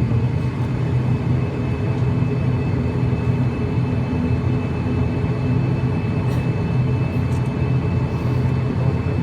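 Twin-propeller aircraft's engines running steadily after start-up, a continuous low drone with no change in pitch.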